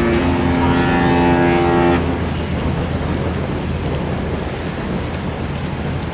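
Disney cruise ship's musical horn sounding a held chord, the end of a horn tune, that cuts off about two seconds in. After it comes steady wind noise with a low rumble.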